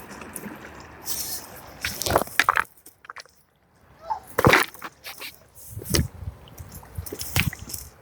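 River water sloshing and splashing: a steady rush of flowing water, then several sharp splashes, about two seconds in, then around four and a half, six and seven and a half seconds.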